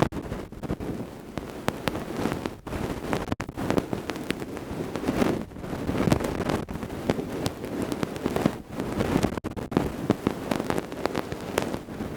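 Ear-cleaning ASMR tools scraping and rubbing against a microphone's ears: continuous close crackling and rustling with many small sharp clicks.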